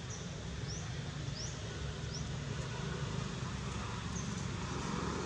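A bird's short, high, rising chirps repeated about every 0.7 seconds over a steady low outdoor rumble, fading out midway and returning briefly twice near the end.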